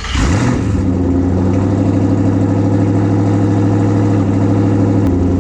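Twin-turbo Ford Mustang Boss 302's V8 just started: its pitch rises briefly in the first second as it catches, then it settles into a steady idle.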